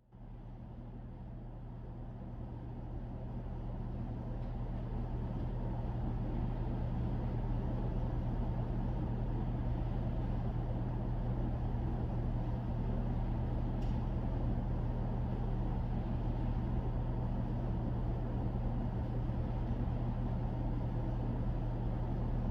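A steady low mechanical hum and rumble that starts suddenly, swells over the first several seconds, then holds even, with no gunshots.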